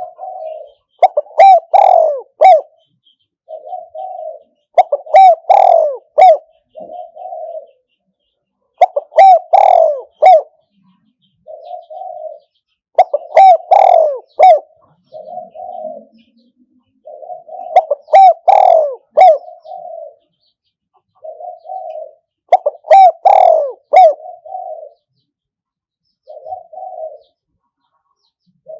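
Spotted dove cooing over and over in loud, close phrases of several coos, one phrase about every four seconds, with softer coos in between.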